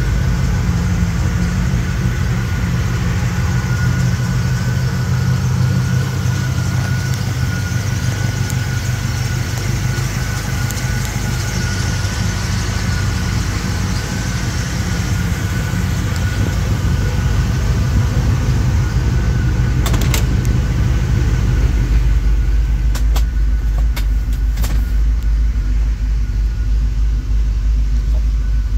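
1955 Chevrolet Bel Air's 327 small-block V8 idling steadily at a low pitch. A few sharp clicks come about two-thirds of the way through, and the idle sounds deeper near the end.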